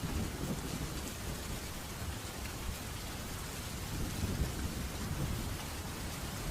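Steady rain hiss with low thunder rumbling underneath; the rumble swells at the start and again about four to five seconds in.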